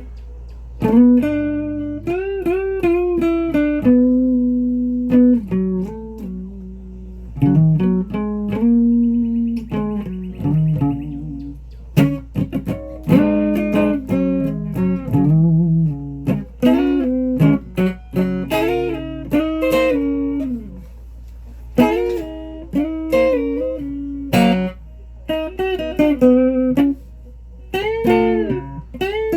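Guitar played as a run of single plucked notes, many bent or slid in pitch, in short phrases with brief pauses between them.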